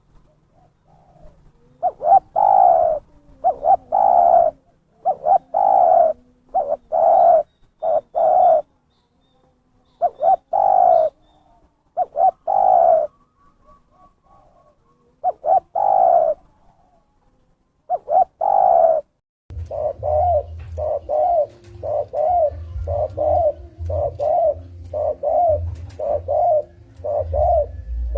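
Spotted dove (terkukur) cooing over and over, played as a trapper's lure call. The coos come in uneven groups with pauses at first, then about two-thirds of the way through they settle into a steady quick run of about one and a half coos a second over a low rumble.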